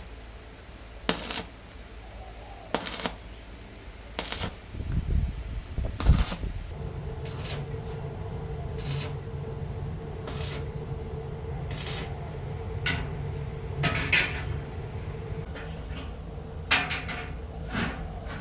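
Sharp metallic clinks and taps of metal parts or tools, about one every one and a half seconds. A low steady machine hum comes in about five seconds in.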